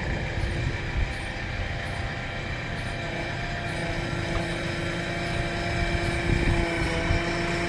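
JCB backhoe loader's diesel engine running steadily, with a constant mechanical hum and whine.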